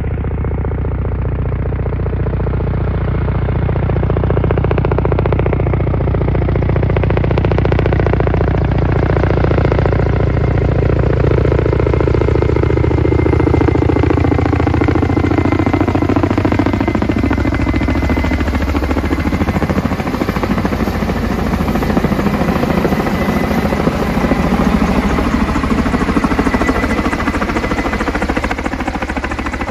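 Kamov coaxial-rotor helicopter hovering low overhead with a water bucket slung beneath it, its rotors and turbines making a loud, steady chopping rumble. The pitch of the noise drifts down and later back up as the helicopter moves about.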